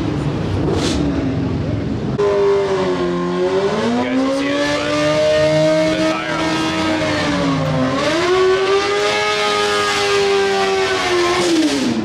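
A car engine revved hard and held at high rpm for about ten seconds, its pitch dipping briefly twice and then falling away near the end.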